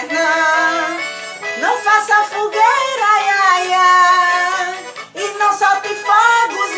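A voice singing a parody song over musical accompaniment, with a few sliding notes partway through.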